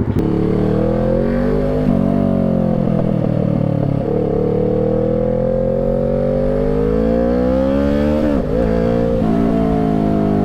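Motorcycle engine pulling under acceleration, its pitch climbing and then dropping at gear changes about two seconds in and again about eight seconds in, easing off near the end.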